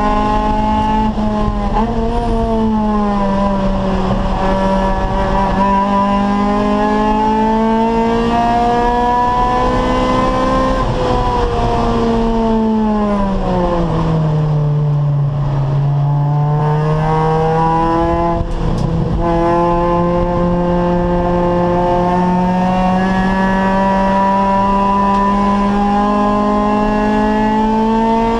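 Acura Integra race car's four-cylinder VTEC engine running hard under load. Its pitch falls steeply about halfway through as the car slows, then climbs steadily again as it accelerates back up through the revs.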